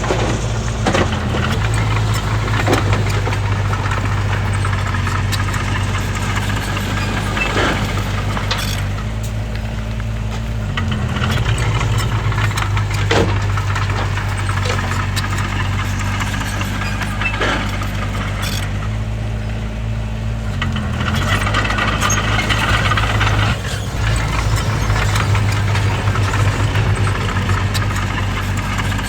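Bulldozer's heavy diesel engine running steadily under work, with scattered metallic clanks and rattles. The engine note dips briefly twice, about a third of the way in and again about two-thirds in, as the load changes.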